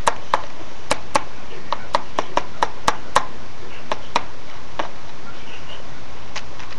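Irregular sharp taps of small plastic toy figurines knocked against a hard surface, about a dozen in quick succession and then a last one after a pause, over a steady hiss.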